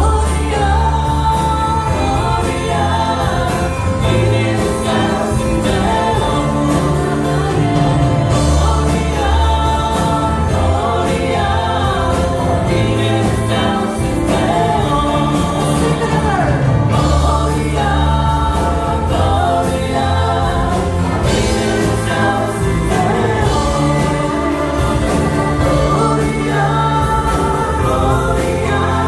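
A group of voices singing a Christmas hymn together with music accompaniment: sustained low bass notes and a steady beat beneath the singing.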